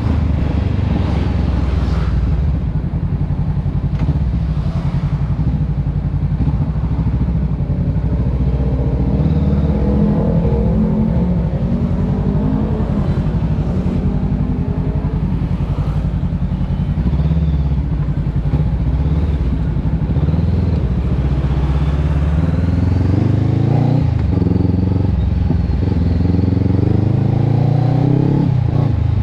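Honda CB500X parallel-twin engine running through an aftermarket Termignoni exhaust, the revs rising and falling; near the end it climbs twice and drops off sharply each time.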